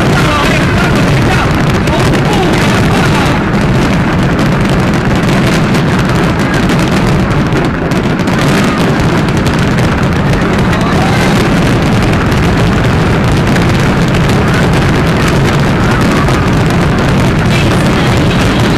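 Fireworks display going off without a break: bangs and crackles packed so densely they merge into one steady, very loud din that overloads the recording.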